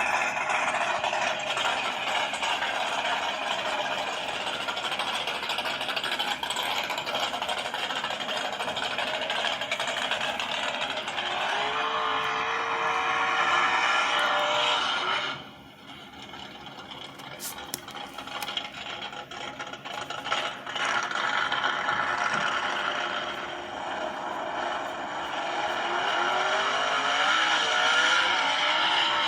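Recorded car engine sounds: engines running and revving, the pitch climbing twice. The sound drops away suddenly about halfway through, then builds again.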